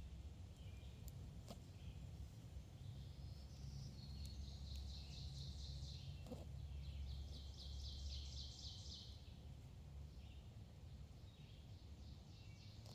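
Wild birds singing: short high chirps, then a fast run of rapidly repeated notes lasting several seconds, over a faint steady low rumble.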